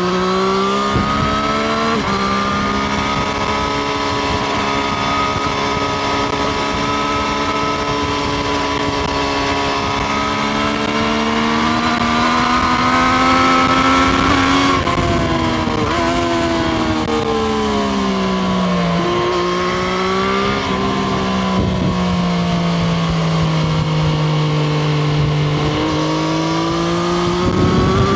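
Triumph Street Triple RS inline three-cylinder engine heard onboard while riding, its note rising and falling with the throttle. The pitch climbs to a peak about halfway through, drops sharply, sags and picks up again, and climbs once more near the end.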